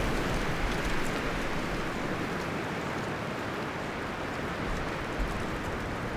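Wind rustling through forest leaves and branches, a steady rushing hiss that eases off a little over the first couple of seconds.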